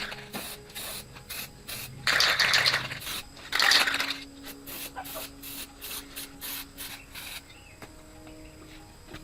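Two short bursts of hissing spray, about two and four seconds in, amid quick scratchy rubbing strokes during motorcycle repair work.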